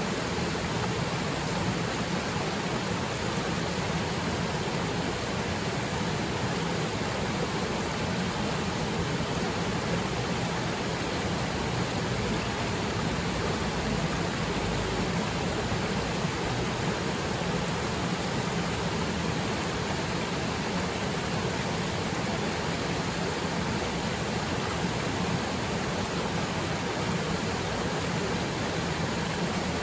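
Waterfall pouring into its plunge pool: a steady, even rush of water that never changes.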